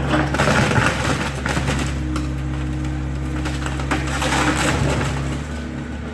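Excavator's diesel engine running steadily while wood is crushed and splintered as the garage is demolished. The cracking and crunching is strongest in the first couple of seconds.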